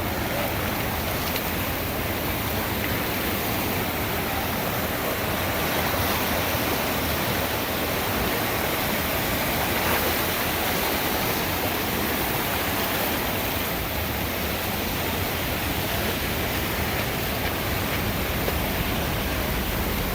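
The Little Pigeon River swollen with floodwater after hours of rain, rushing in a steady, unbroken roar.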